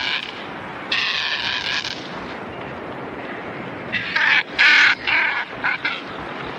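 Seabird calls: one call about a second in, then a quick series of calls around four to six seconds, over a steady background hiss.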